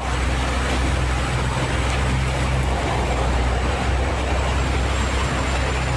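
Tour boat's engines droning steadily, under a broad rushing noise of the falls' water and wind.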